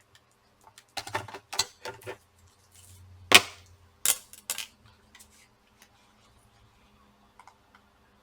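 Sharp clicks and knocks of hard plastic and metal laptop parts being handled while a laptop hard drive's cable is disconnected. There are several in the first half, the loudest about three seconds in, then only a few faint ticks.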